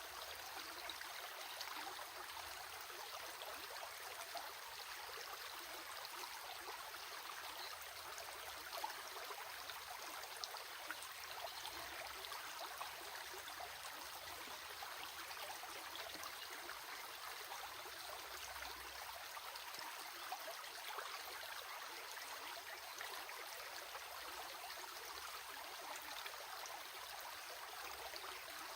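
Running water flowing steadily, with small splashes and drips now and then.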